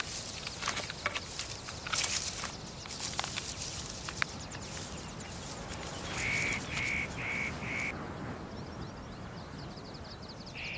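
Forest ambience: scattered light crackles and rustles, then a bird calling a run of four short, evenly spaced notes, followed by a fast, high trill and three more of the same notes near the end.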